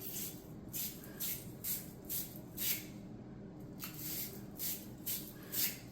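Scrubbing strokes, about two a second with a short pause a little past the middle: copper pipe and fittings being scoured clean for soldering.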